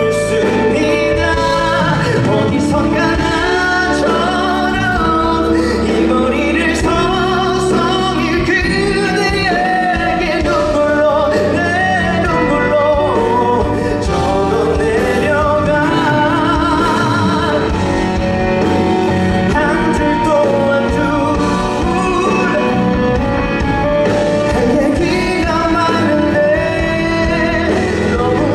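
Male singer performing a song live, with a voice that wavers in pitch over continuous instrumental accompaniment.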